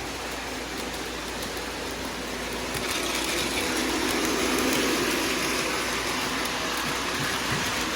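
Freight train rolling past, a steady rushing rumble that grows louder about three seconds in.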